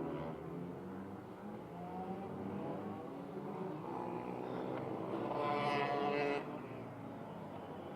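Pit bike's small single-cylinder engine running at varying revs, its pitch rising and falling. It gets louder for about a second around five to six seconds in, then drops off sharply.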